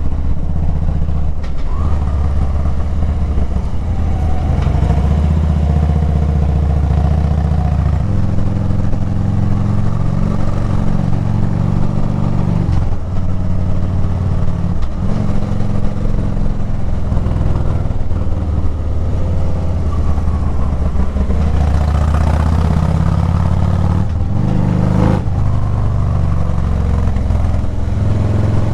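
Harley-Davidson V-twin motorcycle engine running under way, its pitch stepping up and down several times as the rider changes speed and gears.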